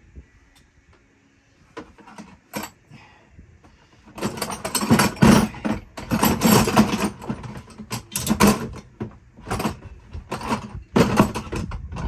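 Hand-tool work: a few light clicks, then from about four seconds in loud, irregular bursts of metallic clattering and rattling.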